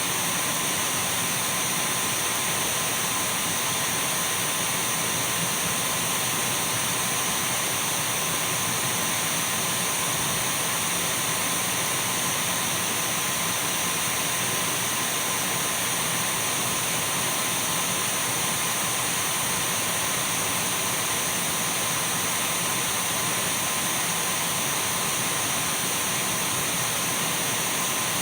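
Dyson V12 cordless stick vacuum running steadily: an even rushing hiss of air with a thin, unchanging high-pitched motor whine over it.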